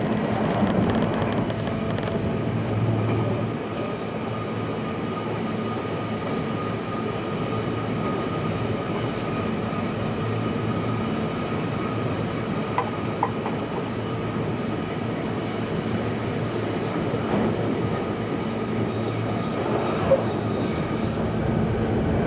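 Steady running noise heard inside a JR Kyushu 883 series electric train at speed: the continuous rumble of the wheels on the rails, with a faint steady high tone over it.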